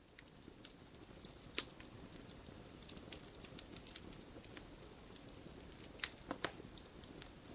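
Faint, sparse crackling: irregular sharp clicks and pops over a low hiss, the loudest about a second and a half in and a small cluster near the end.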